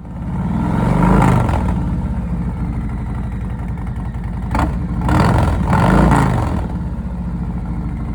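Harley-Davidson motorcycle's V-twin engine running, revving up and back down about a second in, then twice more around the middle, and running steadily in between.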